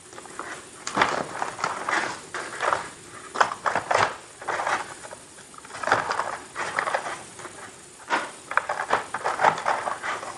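Close-miked crackling and rustling from Halloween Oreo cookies and their packaging being handled, in three bursts of quick crackles separated by short pauses.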